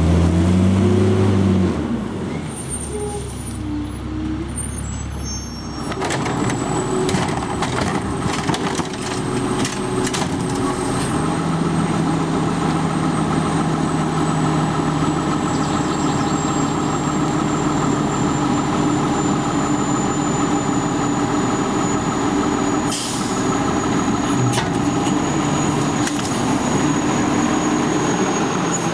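A garbage truck's diesel engine running, brought up to a steady higher speed about six seconds in while the truck works. Scattered metal clanks run through it, with a short burst of air hiss about 23 seconds in.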